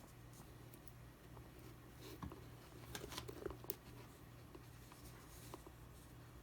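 Faint scattered clicks and rustles of small parts being handled, busiest in the middle, over a low steady hum.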